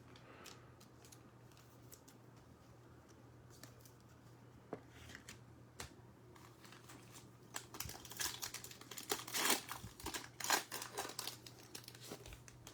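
Trading-card pack wrapper being torn open and crinkled. A few faint clicks come first, then a run of crackling tears and crinkles from about seven seconds in, lasting about four seconds.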